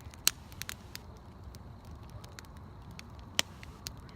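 Wood bonfire crackling, with scattered sharp pops and two louder snaps, one just after the start and one a little past three seconds in.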